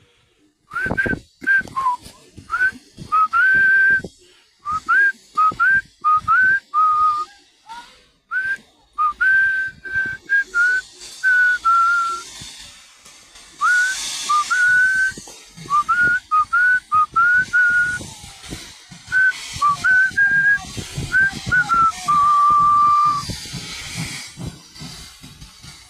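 A person whistling a tune: short notes in phrases, with little slides up and down between them and brief pauses. Two bursts of hiss come in, one around the middle and one near the end.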